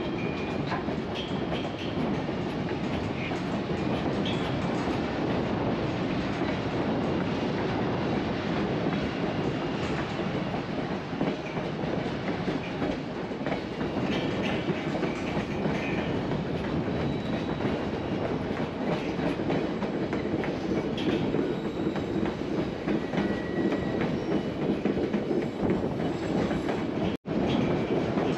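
Narrow-gauge White Pass railway passenger train running, with a steady rumble and wheels clattering over the rail joints. The sound cuts out for an instant near the end.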